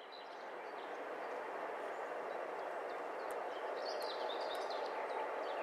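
Small birds chirping, a scatter of short high calls thickest about four seconds in, over a steady distant rushing noise that slowly grows louder.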